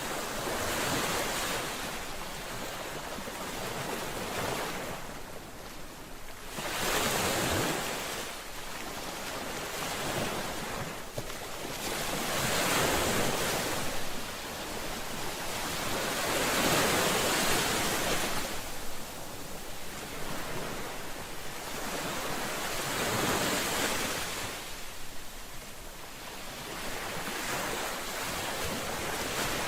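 Ocean waves breaking and washing on a shore, the surf swelling and fading in surges every five or six seconds.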